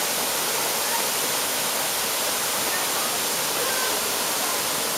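Steady rushing of a waterfall: falling water hissing evenly, with no breaks.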